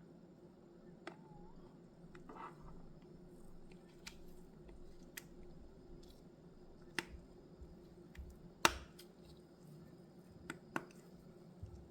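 Scattered small, sharp clicks and taps of small objects being handled on a desk, with the loudest about two thirds of the way in, over a faint steady hum.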